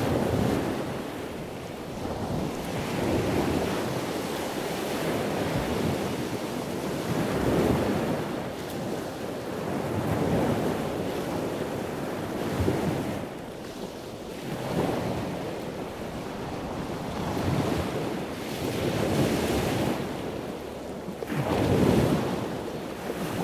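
Sea waves washing in, swelling and falling every two or three seconds, with wind.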